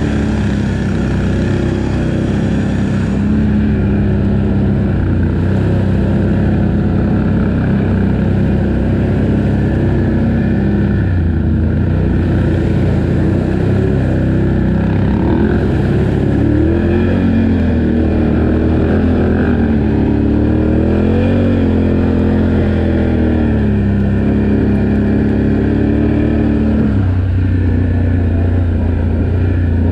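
ATV engine running while riding a trail, the revs rising and falling as the throttle is worked, most noticeably in the middle stretch.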